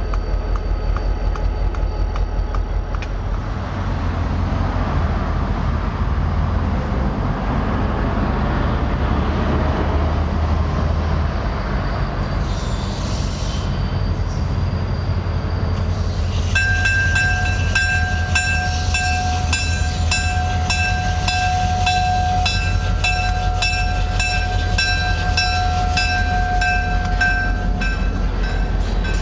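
Diesel-hauled passenger train rolling by, its locomotive engine rumbling low and steady. From about halfway in, a steady high squeal from the steel wheels sets in, along with an evenly repeating clicking of wheels over rail joints.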